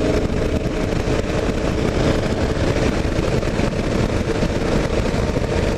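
Kawasaki KLR 650's single-cylinder engine running steadily at road speed, mixed with wind rushing over the helmet- or bike-mounted camera microphone.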